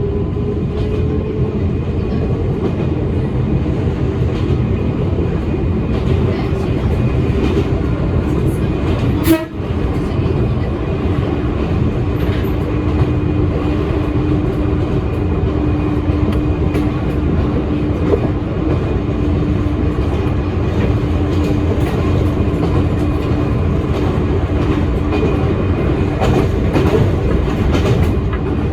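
Toyama Chihō Railway electric train running along the line: a steady rumble of wheels and running gear with a low humming tone. A single sharp knock comes about nine seconds in.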